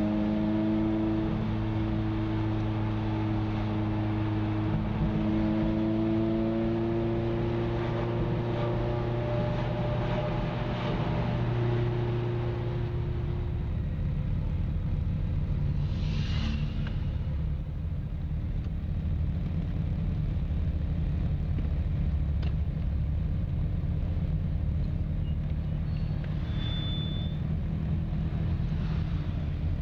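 Ferrari F355's V8 engine heard from inside the car, running at steady cruising revs with its pitch rising slightly a couple of times. About 13 seconds in it drops to a low, uneven rumble of engines idling and creeping along in a line of Ferraris.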